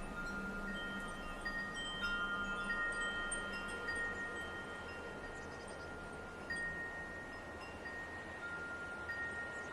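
Wind chimes ringing gently, a few tones struck every second or so and left to ring on for several seconds, overlapping, over a soft steady hiss.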